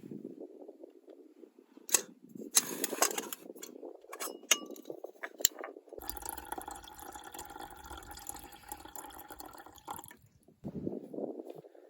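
Light clinks and taps of cookware or glassware, one of them briefly ringing, then about four seconds of steady running liquid.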